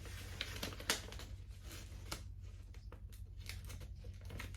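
Paper rustling and crinkling as a product information sheet is handled and unfolded, with a few sharper crackles.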